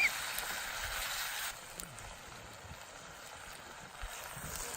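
Food sizzling and simmering in a pan over a campfire: a steady hiss that drops to a quieter level about a second and a half in.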